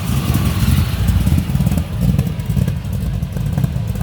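A loud car engine running with a deep exhaust rumble and some rattle over it.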